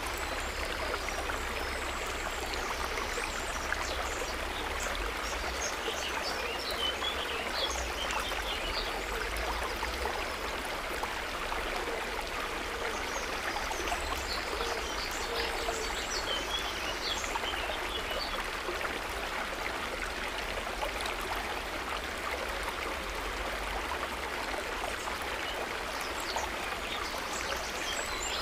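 Steady gently babbling, trickling water, with scattered short high chirps of small birds coming in clusters and again near the end.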